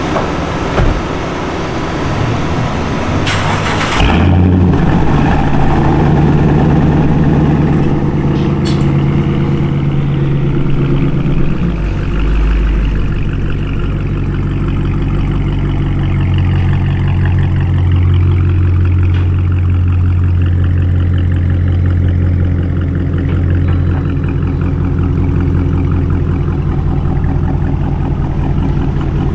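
Car engine cranking and catching about four seconds in, then idling steadily; the idle settles to a lower pitch around twelve seconds in.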